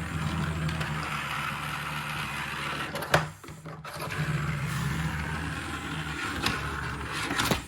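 Small battery-powered toy train motor running with a steady buzzing hum, cutting out briefly about three seconds in and then starting again.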